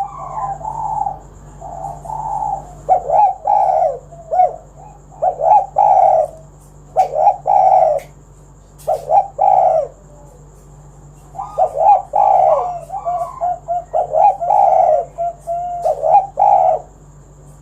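A dove cooing over and over in phrases of short notes, with a pause of about a second and a half near the middle.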